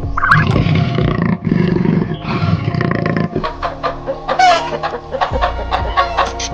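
Animal calls over background music: rough, drawn-out calls in the first half, then a quicker run of short sounds with one pitched call near the middle of that run.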